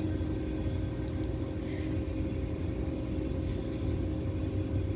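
Steady low hum of rooftop air-conditioning units running, with a couple of faint steady tones over it.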